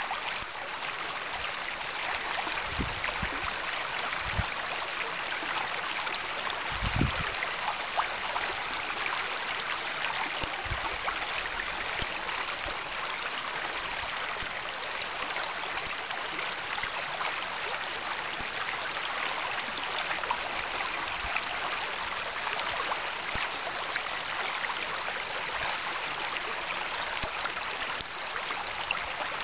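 Spring meltwater running over a small waterfall: a steady rush of water, with a few short low bumps in the first ten seconds or so.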